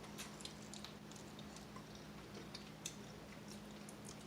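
Faint crunchy chewing of a breaded fried chicken wing: scattered small crackles and clicks at irregular intervals, over a faint steady low hum.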